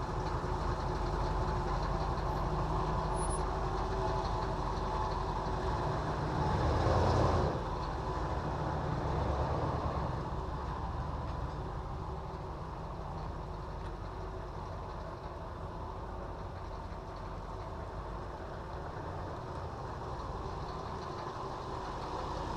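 A machine running steadily with a low rumble and a constant hum, swelling louder with a hiss about seven seconds in before settling back to a steady run.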